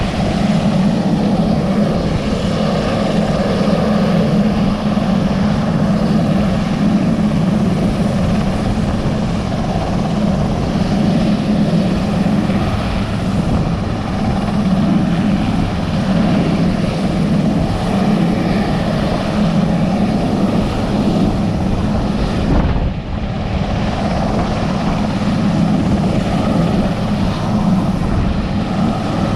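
Sikorsky S-61 helicopter's twin turboshaft engines and main rotor running in flight on approach to land: a loud, steady drone that dips briefly about two-thirds of the way through.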